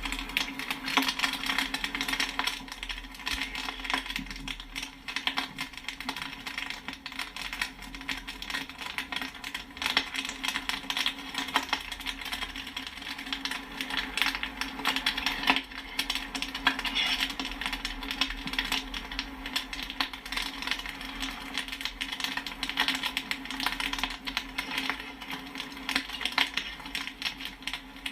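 Popcorn kernels popping in quick, dense succession, many pops a second with a metallic pinging, over a steady low hum.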